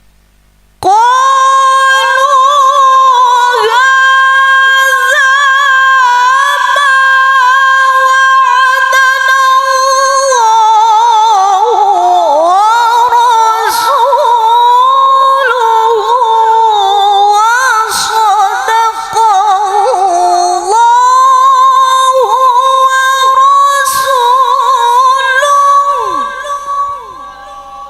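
A woman reciting the Quran in the melodic tilawah style. She holds one long, high, ornamented phrase with wavering and gliding turns. It begins about a second in and fades away near the end.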